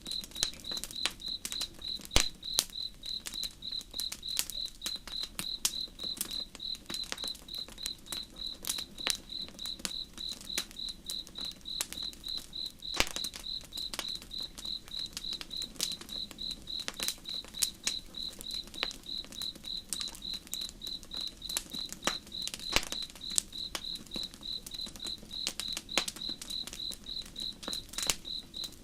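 Campfire crackling with irregular sharp pops, over a cricket chirping steadily at a high pitch, about three chirps a second.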